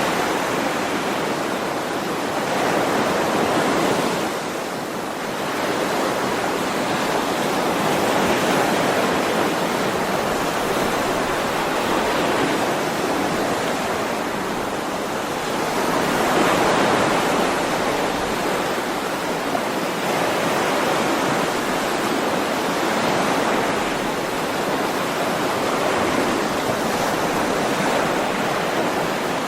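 Continuous ocean surf, waves washing in and out, with a steady rush that swells and eases every several seconds.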